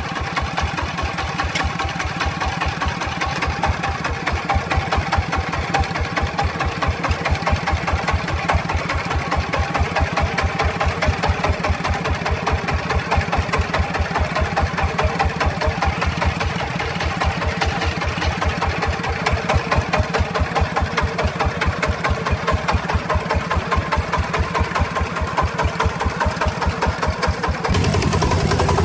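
Truck engine running with a steady, even chugging beat and a constant whine above it. Near the end the sound changes abruptly to a louder, smoother engine noise.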